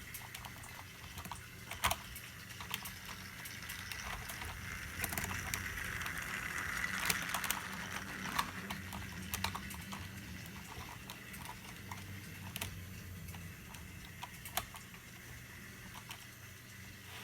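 Small electric model train (Percy) running along HO track with a faint steady motor hum and irregular light clicks of its wheels over the rail joints.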